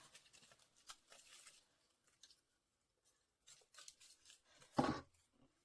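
Faint paper handling: light cutting and peeling of a cut-out paper piece, with scattered small clicks and rustles and one louder rustle about five seconds in.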